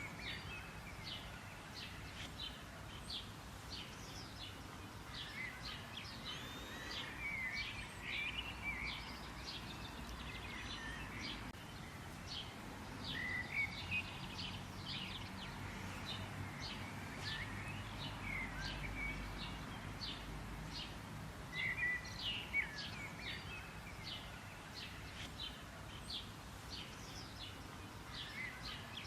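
Wild birds chirping and singing: many short high notes and quick trilled phrases, some repeating, over a steady low background rumble.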